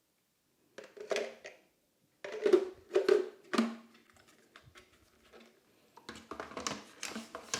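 Hard plastic clunks, knocks and clicks from the water tanks of a Dreame H11 Max wet-dry vacuum being handled, in three bursts: a few knocks about a second in, a louder cluster around the third second, and quicker clicking near the end.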